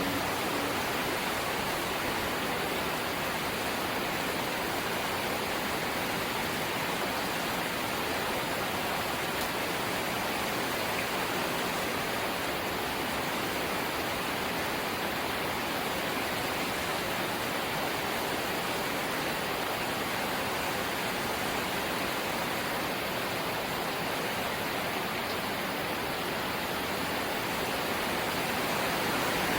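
Steady rain falling on a corrugated zinc (seng) house roof, an even, unbroken wash of noise.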